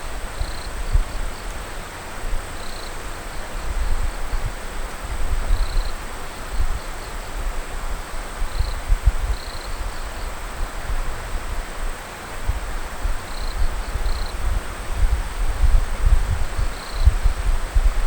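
Wind buffeting the microphone in gusts, with a small bird giving short high calls about eight times, every one to three seconds.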